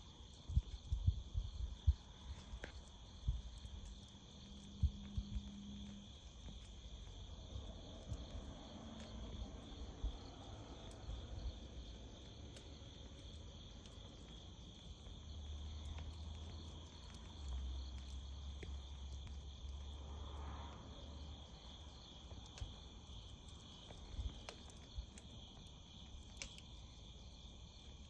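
Crickets trilling steadily, with scattered low thumps and a few faint sharp pops, mostly in the first five seconds.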